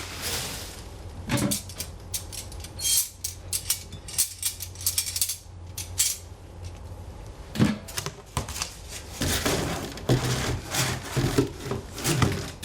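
Hands unpacking stainless-steel fire-pit parts: irregular rustling and crinkling of packaging mixed with light taps and clinks of metal, over a steady low hum.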